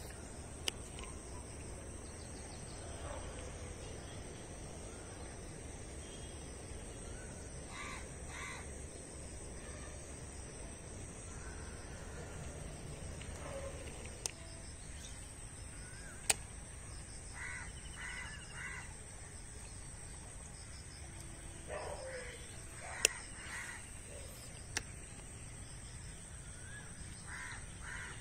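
Birds calling outdoors in short harsh calls, in groups of three or four that come several times, over a low steady rumble. A few sharp clicks stand out above everything, the loudest about two-thirds of the way through.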